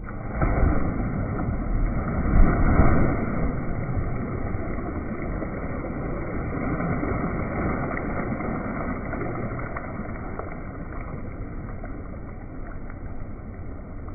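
Steady, muffled rush of churning pool water bubbling up from jets, with splashing that makes it louder in the first few seconds.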